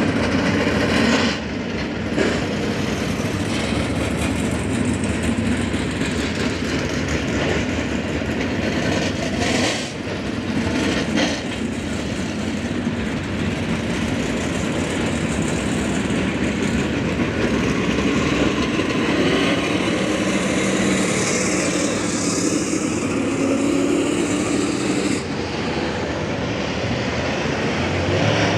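Dirt late model race cars' V8 engines running at speed on the track during warm-up laps, a steady, dense engine noise that swells and dips slightly as cars pass.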